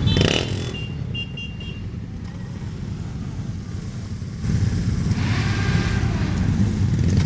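Motorcycle engines running in street traffic, a low rumble that eases off and then grows louder again about four and a half seconds in. A brief rev sounds right at the start.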